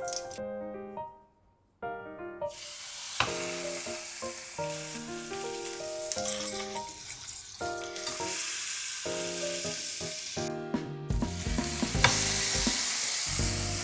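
Porterhouse steak sizzling as it cooks. The sizzle starts a couple of seconds in, after a brief drop-out, and plays under background music with a melodic line and a deep bass beat near the end.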